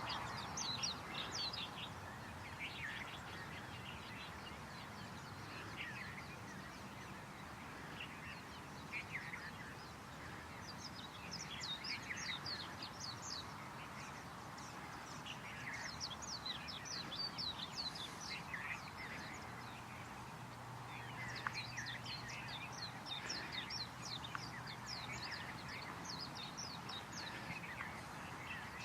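Wild birds calling outdoors in bursts of rapid, high, chattering notes that drop in pitch, repeated several times over a steady background hiss.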